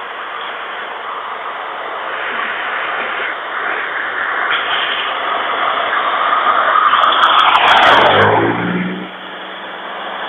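A road vehicle passing close by. Its tyre and engine noise builds for several seconds, peaks about eight seconds in, then drops sharply in pitch as it goes past and fades.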